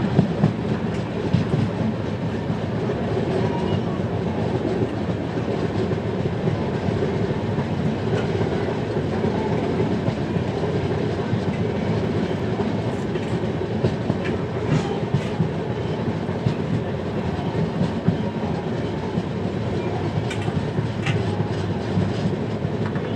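Passenger train running steadily, a continuous low rumble and rattle with wheels clicking over the rail joints, and a few sharp clicks in the second half.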